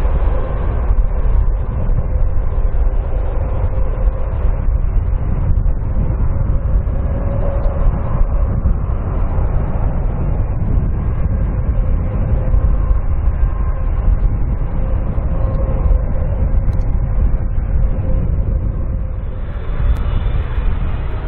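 Boeing 767 jet engines during a landing, a steady low rumble with a faint steady hum above it. The sound changes just before the end.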